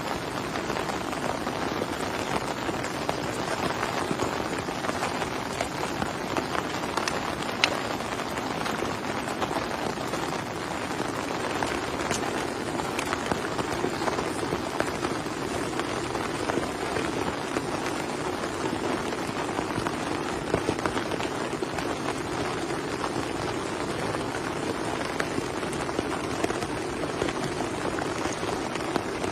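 Heavy rain falling steadily, with many individual drops hitting close by.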